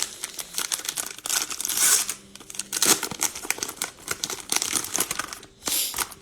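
Cellophane wrapper of a Mosaic baseball card cello pack being torn open and crinkled by hand, in irregular crackly rustles with louder bursts about two seconds in and near the end.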